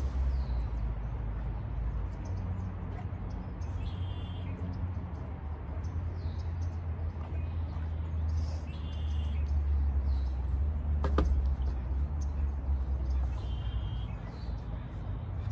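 A small songbird calling outdoors: a short, chirpy phrase repeated every four or five seconds over a steady low rumble. A single sharp click comes about two-thirds of the way through.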